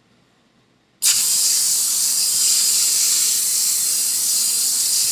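Aerosol cooking-spray can spraying a pan: a loud steady hiss that starts abruptly about a second in.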